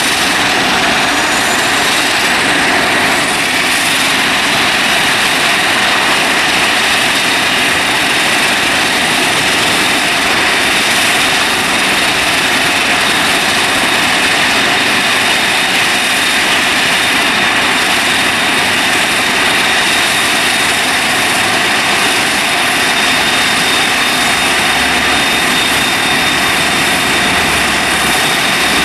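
Jet airliner engines running steadily: a constant loud rushing noise with a steady high-pitched whine over it.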